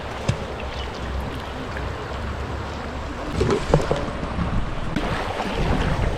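River water rushing and splashing around a bamboo raft, with wind rumbling on the microphone. A few brief splashes or knocks come about three and a half seconds in.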